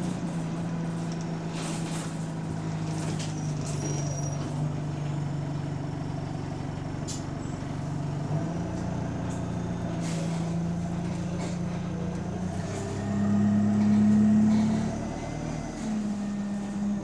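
The diesel engine of bus SE152 running under way, heard from inside, with a steady drone. About two-thirds through it rises in pitch and gets louder as the bus pulls away, then drops back. The bus has an exhaust leak.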